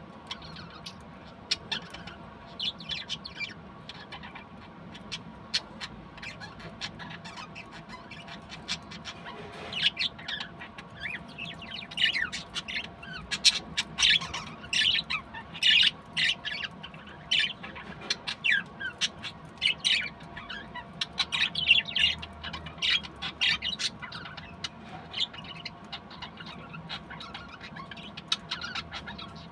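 Budgerigars chirping and chattering in a stream of short calls, sparse at first and busier and louder from about a third of the way in.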